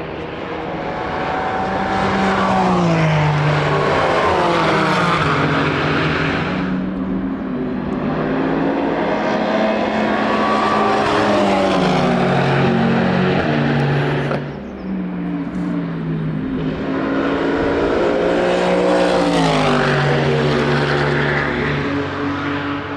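Racing cars at full throttle passing one after another, about three passes, the engine note falling in pitch as each goes by.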